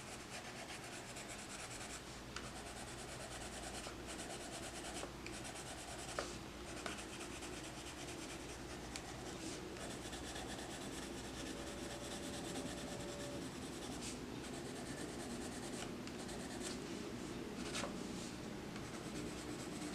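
Colored pencil rubbing and scratching steadily on paper as an area is shaded in, with a few faint clicks.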